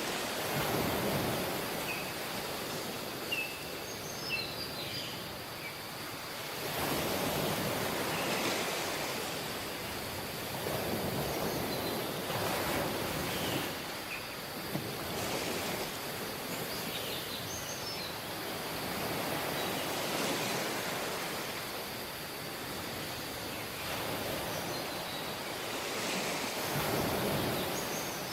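Small waves washing onto a tropical beach, the surf swelling and falling back every few seconds. A few faint, short, high chirps sound over it.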